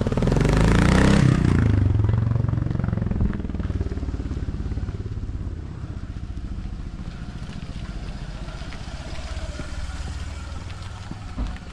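A motor vehicle engine, loudest in the first two seconds as it passes close with its pitch sweeping, then a steady engine rumble that slowly fades.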